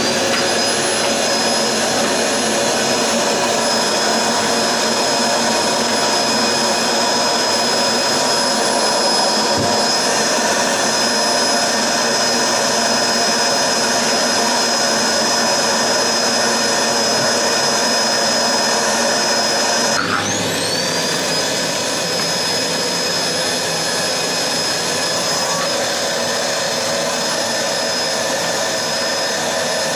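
Vacuum cleaner running with a steady, high motor whine. About two-thirds of the way through, the motor briefly drops in pitch and winds back up to speed.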